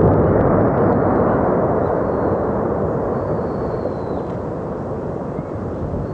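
Deep rumbling roar of a volcanic eruption, loudest at the start and slowly fading.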